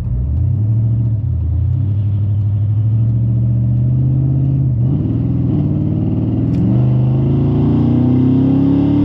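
A 3/4-ton pickup truck pulling away and accelerating. The engine's pitch climbs, then drops back at each of about three gear changes. The drive shaft has just been replaced.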